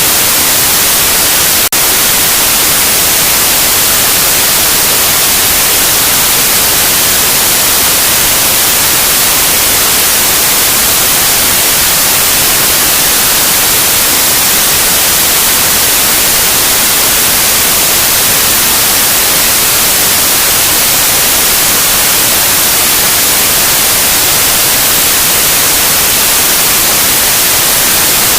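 Loud, steady white noise: an even hiss with no pitch or rhythm, strongest in the treble. There is one brief click just under two seconds in.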